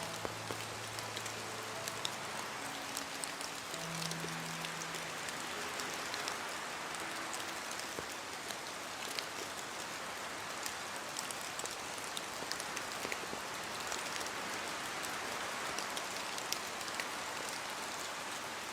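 Steady rain falling: an even hiss with many scattered drop ticks. A few soft, low held music notes sound in the first several seconds.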